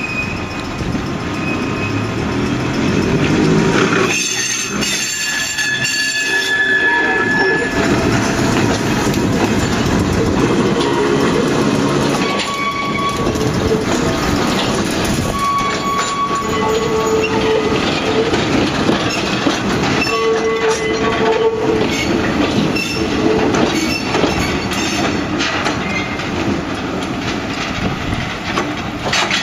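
Ohmi Railway 220-series electric railcar and Hoki ballast hopper wagons rolling slowly past on a shunting move. The railcar's horn sounds about four seconds in for roughly three seconds, and the wheels then squeal on and off over the rails and points.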